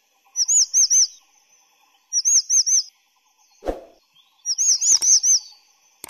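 A small bird calling in three short bursts of rapid, repeated high whistled notes, three or four notes each, with a low thump between the second and third bursts.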